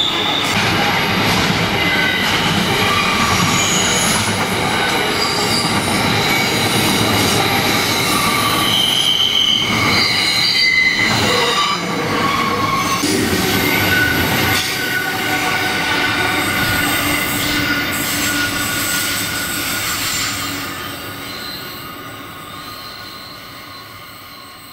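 Container freight train running past at close range: a steady rumble of wagons under high, shifting squealing tones from the wheels. It fades away over the last few seconds as the end of the train goes by.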